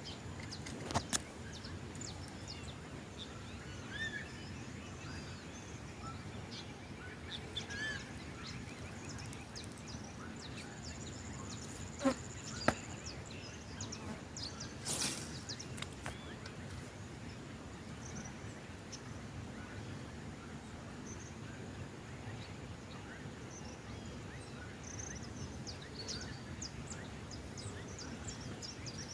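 Assorted wild birds calling, with many short, scattered high chirps and whistles over a steady background hiss. A few sharp clicks stand out: one about a second in, two in the middle, and the loudest about halfway through.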